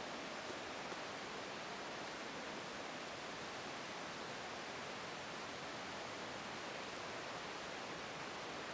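Steady, unbroken rush of fast-flowing water from a rain-swollen waterfall and river.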